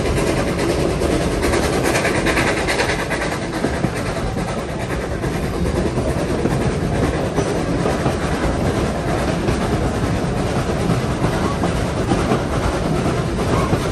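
Railway carriages running along the track: a steady rumble and clatter of steel wheels on rails.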